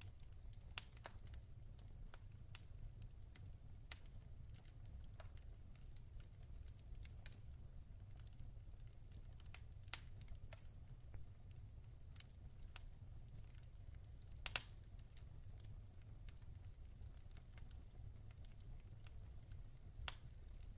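Log fire crackling: scattered sharp pops and snaps over a low steady rumble, with the loudest snaps about ten seconds in and again near fifteen seconds.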